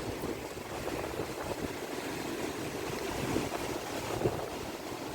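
Monsoon sea surf rushing steadily under a strong wind, with gusts buffeting the microphone.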